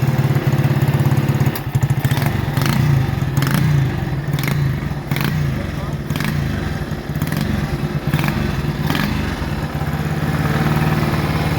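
1962 Motobi 200 Sprite motorcycle engine idling steadily, with a string of sharp clacks between about 2 and 9 seconds in.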